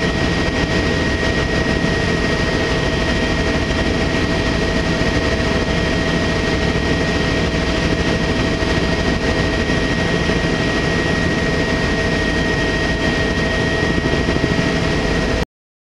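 Helicopter in flight: a steady, loud engine and rotor din with a constant high whine, which cuts off suddenly near the end.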